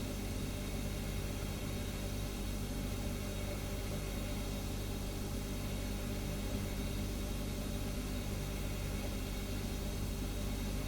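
Refrigerator humming steadily: a low hum made of several steady tones, with an even hiss above it.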